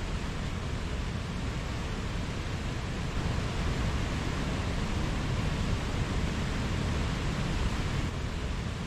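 Mountain stream flowing and rushing over rocks, a steady full rush of water that swells a little for a few seconds in the middle.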